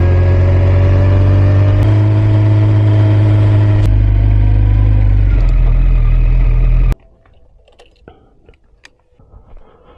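Kawasaki Ninja ZX-14's inline-four engine running at steady revs, its note shifting slightly twice, then cutting off abruptly about seven seconds in, leaving only faint small noises.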